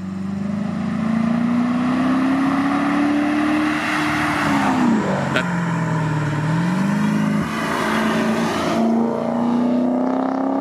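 Hyundai Genesis 5.0 R-Spec's V8 engine accelerating, its pitch climbing for about four seconds, falling back sharply about five seconds in, then rising again and holding. A single sharp click sounds just after the drop.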